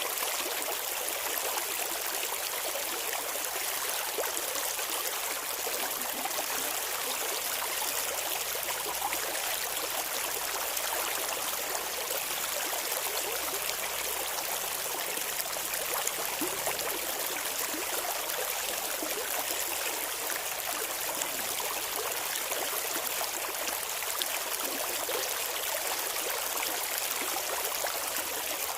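Clear river water flowing and babbling, steady throughout with a light, bright splashing and almost no low rumble.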